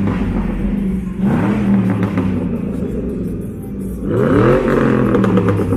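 A car engine revving hard three times, each rev climbing quickly and then held high, as the car spins its tyres in a burnout.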